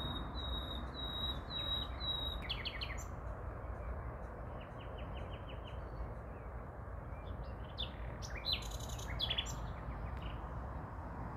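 Songbirds singing: a short high note repeated about three times a second at the start, then trills and a quick run of notes, with more varied phrases near the end. A steady low rumble runs underneath.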